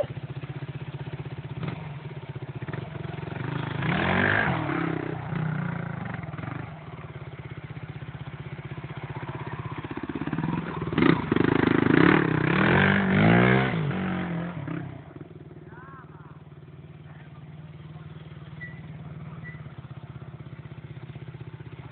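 Trials motorcycle engine running, revving up about four seconds in and again harder from about eleven to fourteen seconds, then settling back to a steady, quieter idle.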